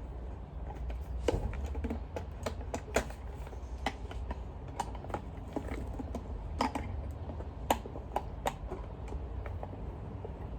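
Irregular small clicks and taps of a screwdriver working a Torx screw out of a Dyson vacuum's plastic cyclone assembly.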